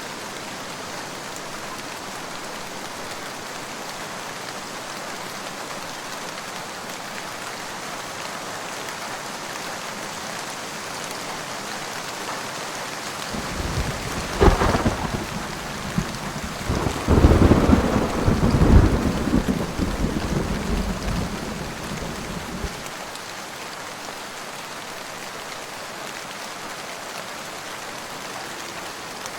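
Steady rain, with a thunderclap about halfway through: a sharp crack, then rumbling that swells and dies away over about eight seconds.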